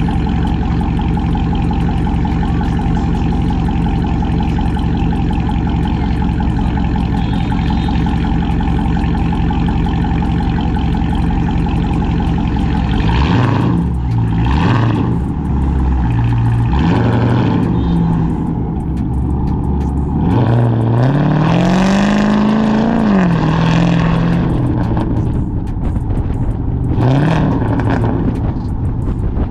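Cammed Chrysler 300C's Hemi V8 running through a catless straight-pipe exhaust, steady at low revs at first. About halfway through it revs in a few short surges. Around three-quarters of the way it accelerates with a long rising pull, and it gives another short rev near the end.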